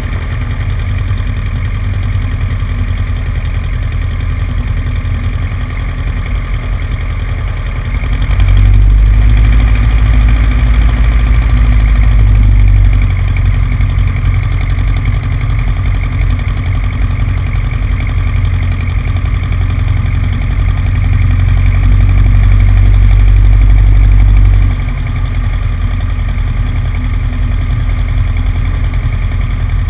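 Cessna 150's four-cylinder piston engine running steadily at low power, heard from a camera on the wing. A heavier low rumble swells up about eight seconds in for several seconds, and again from about twenty-one seconds until it drops back suddenly near twenty-five seconds.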